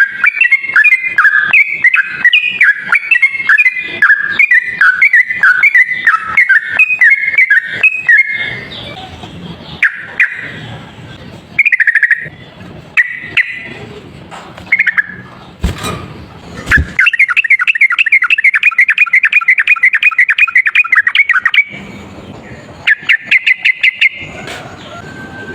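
Yellow-vented bulbul (trucuk) singing in the fast rolling 'ropel' style: a long run of rapid chattering notes, then a stretch of scattered single calls with two sharp clicks, then two more quick trills near the end.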